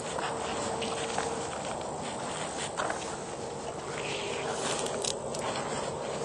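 Footsteps on a dirt trail, with insects chirring steadily in the background. A faint held tone sounds for about a second and a half at the start.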